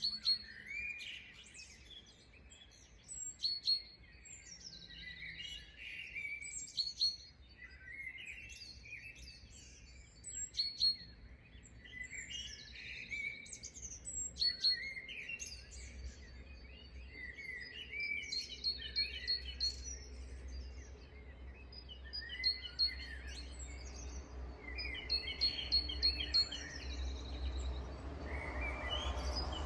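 Several birds chirping and singing at once in an early-morning chorus: short slurred calls overlap with quick, rapid-fire trills. A low rumble grows underneath from about halfway.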